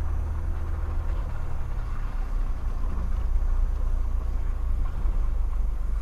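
Mitsubishi Pajero Sport driving off-road, a steady low engine and drivetrain rumble heard from inside the cabin.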